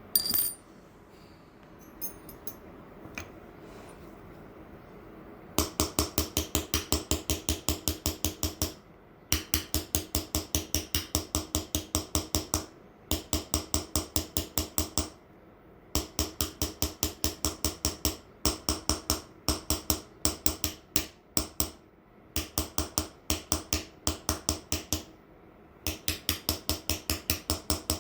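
A small hammer tapping a hand-held engraving chisel into a metal plate, rapid taps at about six a second with a short metallic ring after each, in runs of a few seconds broken by brief pauses. The first few seconds hold only a few scattered clicks before the tapping starts.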